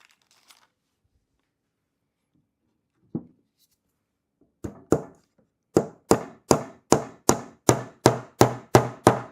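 Hammer driving a small nail into a wooden beehive frame: a single tap, then two, then a steady run of about ten strikes at roughly two and a half a second.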